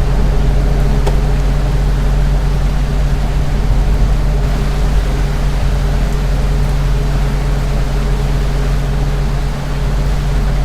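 Ceiling fan running steadily: an even motor hum over a low rumble.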